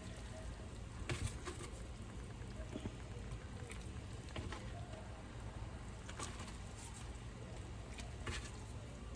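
Pot of chicken broth bubbling steadily at a boil, with a few soft taps about a second in and again near the end.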